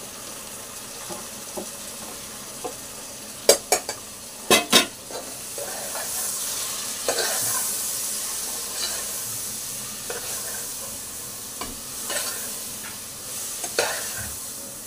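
Tomatoes and ground spices sizzling in hot oil and fried onions in a pressure cooker while a metal spoon stirs and scrapes against the pot. Several sharp spoon clanks, the loudest sounds, come about three to five seconds in, and the sizzle swells for a few seconds after.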